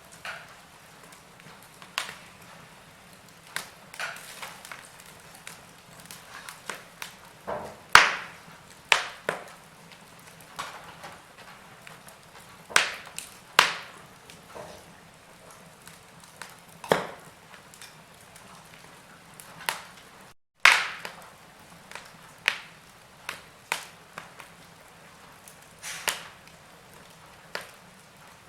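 Log fire crackling: irregular sharp pops and snaps, some much louder than others, over a faint steady hiss. The sound cuts out for an instant about twenty seconds in.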